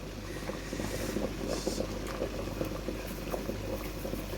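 Pot of water at a rolling boil, steady bubbling and popping, with a brief hiss about a second and a half in.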